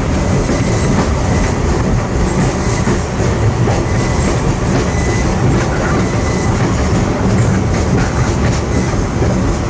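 Passenger train rolling along the track, heard from inside a coach: a steady rumble of wheels on rail with clickety-clack, and a faint thin high tone for a few seconds near the middle.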